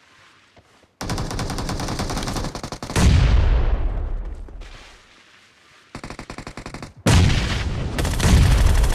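Video-game automatic gunfire: a long rapid burst starts about a second in, with heavy booming shots mixed in. After a short lull, another long burst of rapid fire follows near the end.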